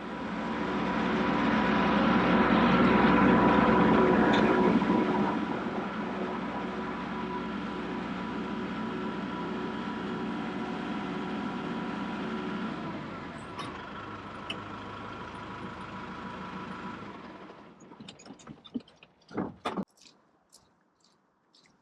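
Kubota tractor's diesel engine running, growing louder over the first few seconds, then holding steady before it dies away about three quarters of the way through. A few knocks follow near the end.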